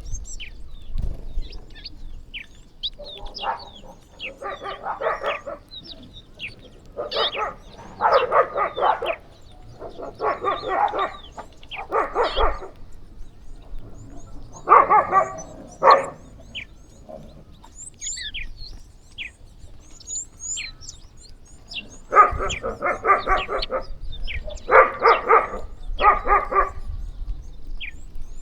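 Small birds chirping continually. Over the chirping come repeated loud, harsh calls, each lasting about half a second to a second, in clusters of two or three every few seconds.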